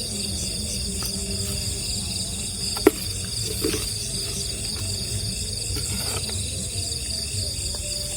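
Night-time chorus of crickets and other insects, a steady high-pitched trilling, with a low rumble underneath and a single sharp click about three seconds in.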